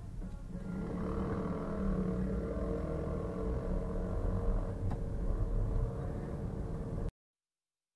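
Steady rumble of a car driving, with a single sharp click about five seconds in. The sound cuts off abruptly near the end.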